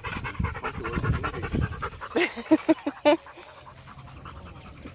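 Rottweiler panting after running for its ball, with a few short pitched voice sounds about two to three seconds in.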